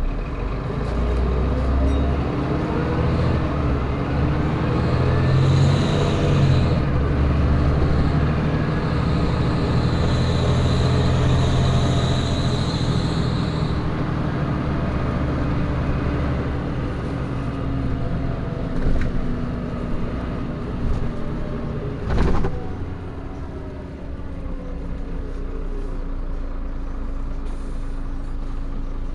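Interior sound of a Van Hool A320 city bus under way: the engine's note rises and falls as the bus accelerates through its gears, then settles into a steadier run. A short, loud burst of noise about 22 seconds in.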